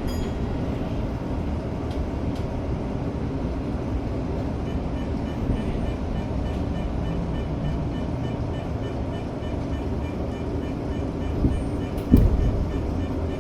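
Tokyo Metro 05 series electric train heard from inside, running with a steady low rumble. A faint, evenly repeating high pinging starts about a third of the way in, and a single loud knock comes near the end.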